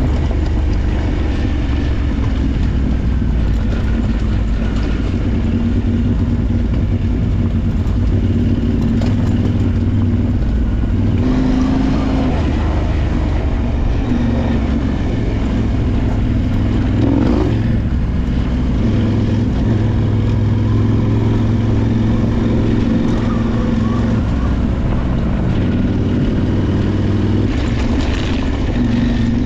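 Adventure motorcycle engine running under way on an off-road trail, with a steady engine note that changes pitch a few times as the revs change, under a constant rush of wind and road noise.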